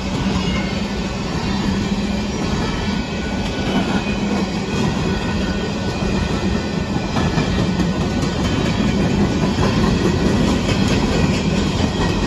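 Empty Union Pacific coal train's cars rolling past at a grade crossing: a steady, loud noise of steel wheels on the rails, with faint clicks as the wheels pass over the rail joints.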